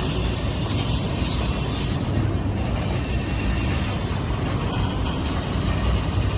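Railcars of a passing CSX military freight train rolling by: a steady rumble of steel wheels on the rails.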